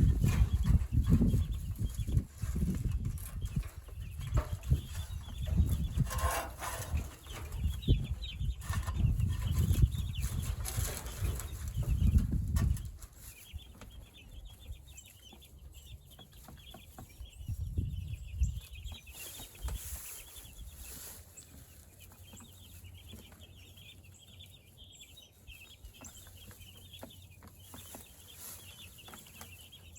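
Flock of meat chickens clucking and cheeping, a busy texture of small high calls. For about the first 13 seconds it is mixed with loud low rumbling and knocks, which then drop away, leaving the birds clearer.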